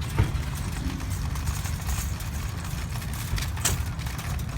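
Shopping cart rolling across a store floor: a steady low rumble from the wheels, with a couple of sharp knocks, one just after the start and one near the end.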